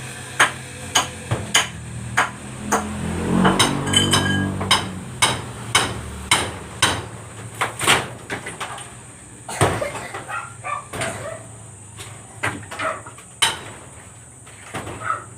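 A hammer striking repeatedly during carpentry work, blows coming at an uneven pace of about two a second, some louder and sharper than others.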